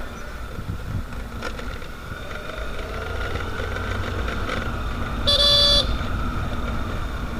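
Steady low engine and road rumble of a ride in traffic. A vehicle horn sounds once, briefly, a little past halfway through.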